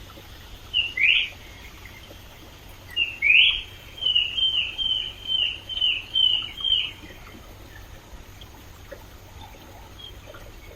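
A bird calls over the steady rush of a stream. It gives two short whistled notes about a second in, then a rising note and a run of about seven repeated down-slurred whistles, roughly two a second, which stops near the end of the first seven seconds.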